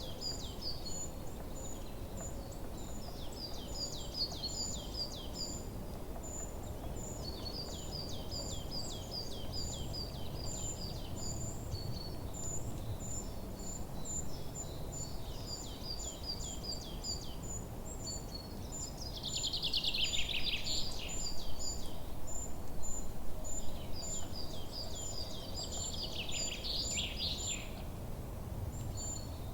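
Forest birdsong: several songbirds calling at once, one giving a steady run of high thin chirps throughout while others sing quick series of repeated notes. A louder, rapid song comes about twenty seconds in and again near the end, over a low steady rumble.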